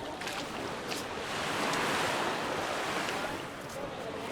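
Small waves breaking and washing up the beach, the wash swelling about a second and a half in and easing off again.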